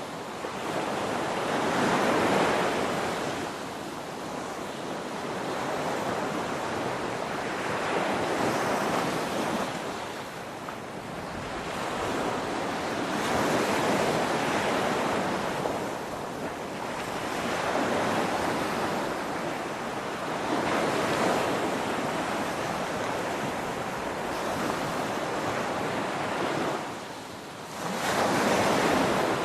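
Ocean waves breaking on a beach, surging and receding about every five seconds, with a brief lull just before a loud surge near the end.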